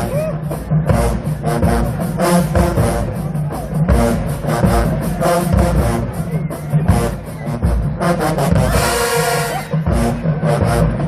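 HBCU marching band playing: brass over a drumline and cymbals with a steady beat, with a loud held chord and cymbal wash about nine seconds in.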